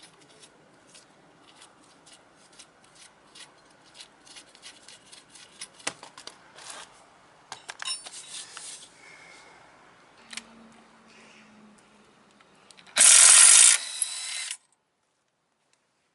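Scattered metal clicks and clinks of hand tools and brake parts being handled during rear brake pad work on a Daelim S300 scooter. Near the end comes about a second and a half of loud hissing that cuts off suddenly.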